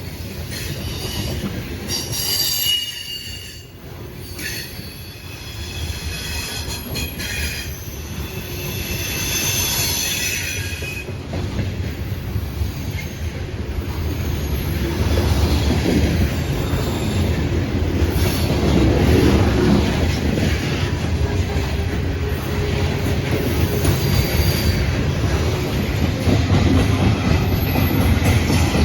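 Train rolling past with its steel wheels squealing in high, wavering tones for about the first ten seconds, then a steady low rumble of the passing cars that grows louder through the second half.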